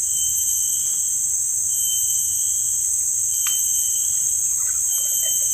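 A chorus of insects keeps up a steady, high, shrill drone, with a shorter high chirp repeating about every one and a half seconds.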